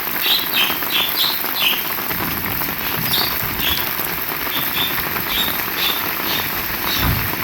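Rain falling steadily, with many short, high chirps scattered through it. A low rumble swells about two seconds in and again near the end.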